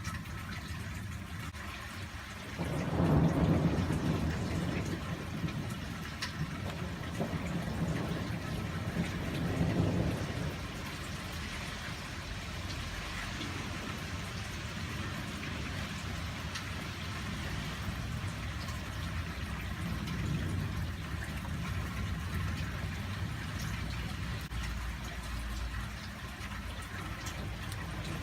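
Steady rain falling with thunder rumbling: a loud roll starting about two and a half seconds in, another about ten seconds in, and a fainter rumble later on.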